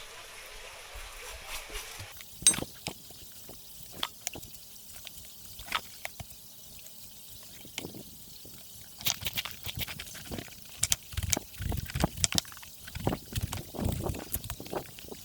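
Kitchen handling sounds: a short stretch of liquid running or pouring, then scattered clinks and knocks of cookware and utensils, a few ringing like glass or metal, getting busier in the second half.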